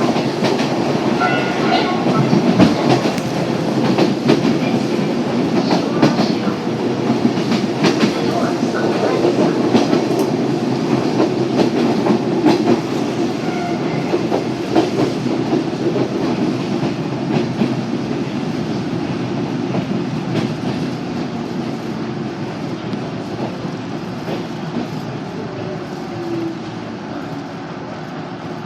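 Yoro Railway train running, heard from inside the car: a steady rumble with wheels clicking over the rail joints, growing quieter toward the end. A brief falling whine comes near the end.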